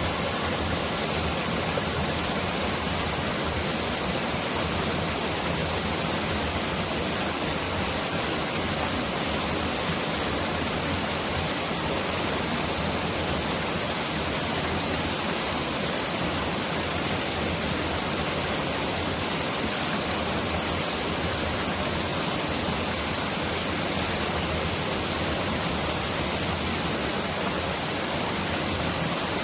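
Mountain valley stream rushing over rocks: a steady, dense hiss of flowing water with no breaks, close to the sound of heavy rain.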